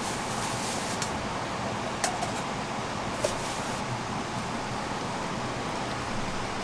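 Steady hiss of rain falling around a tent, with a few light drip taps.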